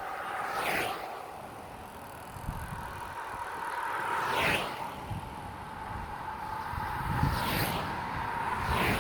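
Road and wind noise from a bicycle being ridden, with a steady hum, low rumble that comes and goes, and a few brief rushing swells.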